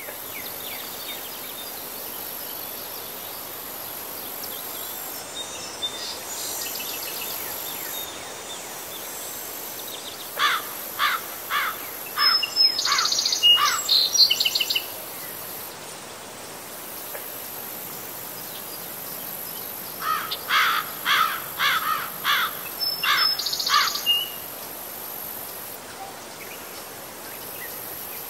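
Outdoor field ambience: a songbird sings two phrases, one about ten seconds in and another about twenty seconds in. Each phrase is a run of quick sweeping notes ending in a higher, faster trill, over a steady high-pitched hiss.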